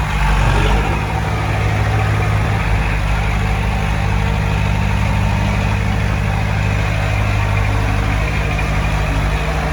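Diesel engine of heavy earthmoving equipment running steadily, with a brief swell in loudness in the first second.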